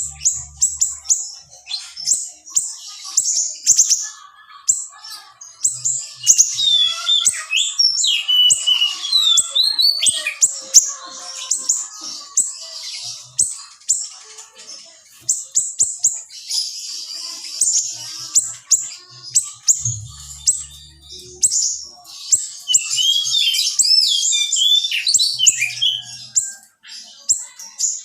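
Small siri-siri songbird singing a dense, fast stream of sharp high-pitched chirps and rapid note bursts, with quick sweeping whistled notes mixed in, almost without pause.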